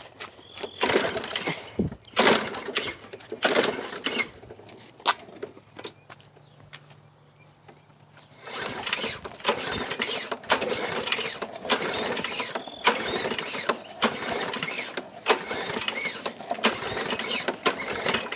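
Recoil pull-start cord of a Troy-Bilt walk-behind lawn mower being yanked again and again, rattling with each pull while the engine turns over without catching. There are several pulls in the first few seconds, a short pause, then a longer run of rapid pulls. The mower has sat all winter on old fuel and will not fire, which the owner takes to need more priming.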